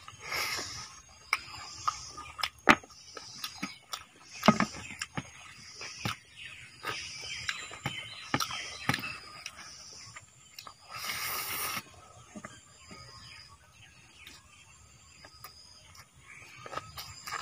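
Close-up eating sounds: open-mouthed chewing and wet lip-smacking at a steady pace of about one smack every two-thirds of a second, with small mouth clicks. About eleven seconds in there is a brief rush of noise, after which the chewing goes quieter.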